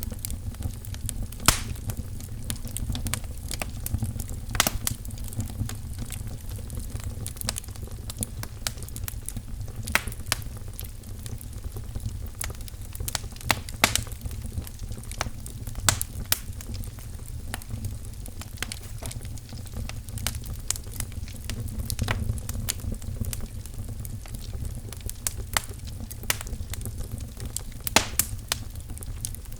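Wood fire burning in a fireplace: a steady low rumble of flames with irregular crackles and pops, a few of them sharp and loud.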